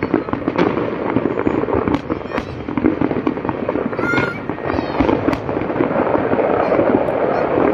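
Fireworks display: dense, continuous crackling and popping from many bursts, with sharp bangs throughout.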